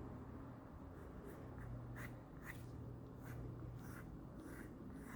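Pencil drawing on paper: a series of short, faint strokes, about six over a few seconds.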